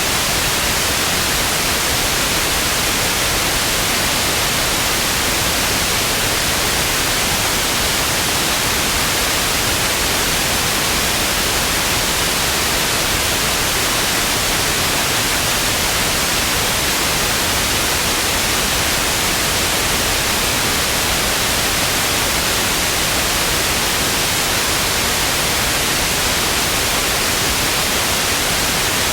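Television static: steady, loud white hiss with no change in level or pitch.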